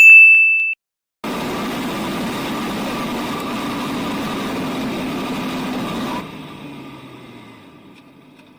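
A short, very loud electronic beep, then half a second of dead silence. After the silence comes a steady running vehicle engine with road noise, which drops off sharply about six seconds in and fades away.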